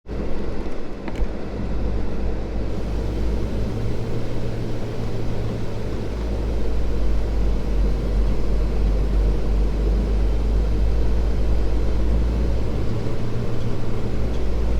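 Kenworth T680 semi truck's diesel engine running, a steady deep drone.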